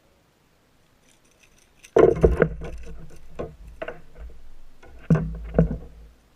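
Irregular knocks and rattles against the plastic hull of a fishing kayak, starting suddenly about two seconds in, with a low thud beneath them and the two loudest knocks near the end.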